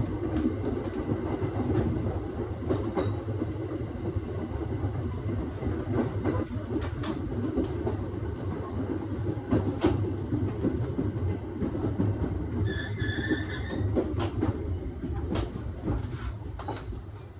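Aoimori Railway 701 series electric train running on the line, heard from the cab: a steady rumble with scattered clicks from the wheels over the rails. About thirteen seconds in, a brief high-pitched squeal.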